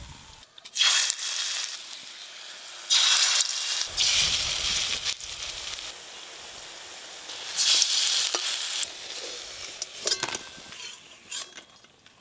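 Pointed gourd leaf fritters deep-frying in hot mustard oil in an aluminium wok: three loud surges of sizzling, each fading off, then a few sharp metal clicks near the end.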